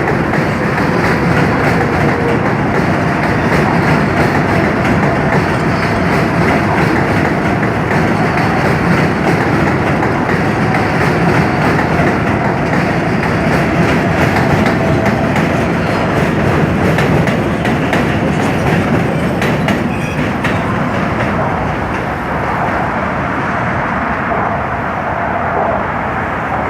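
New York City subway train running on the Williamsburg Bridge tracks: a loud, continuous rumble and clatter of steel wheels on the rails, with a faint steady whine, easing off slightly near the end.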